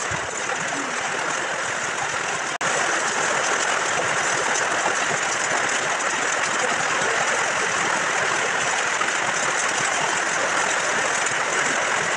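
Heavy rain falling on a corrugated metal roof: a steady, dense hiss, broken by a sharp click and a brief dip about two and a half seconds in.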